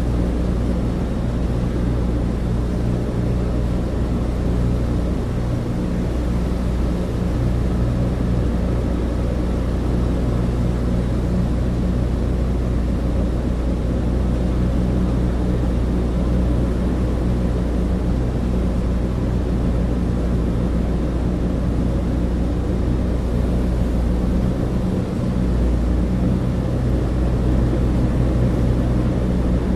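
Cabin drone of a Douglas DC-3 in flight: its twin radial piston engines and propellers make a steady, loud, low hum with an even rushing noise over it.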